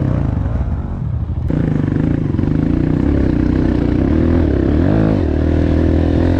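Four-stroke single-cylinder dirt bike engine running close by. The engine note steps up suddenly about one and a half seconds in, then dips and climbs again about five seconds in as the throttle changes.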